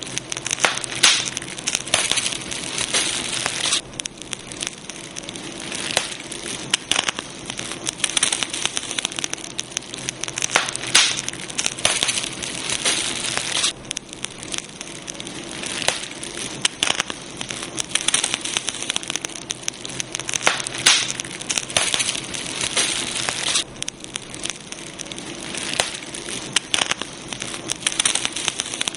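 Campfire crackling steadily, with many sharp pops and clicks over a constant hiss.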